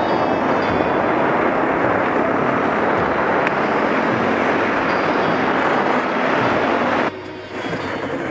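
Motorcycle running on the move, its engine noise mixed with heavy wind and road noise; the sound cuts off abruptly about seven seconds in.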